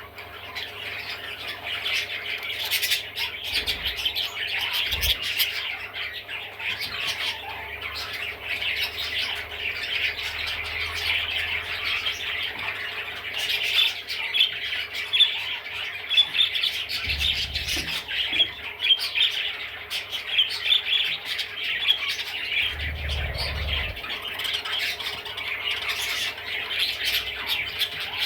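Budgerigar chattering and warbling: a continuous run of short chirps and squawks, with a couple of brief low thuds partway through.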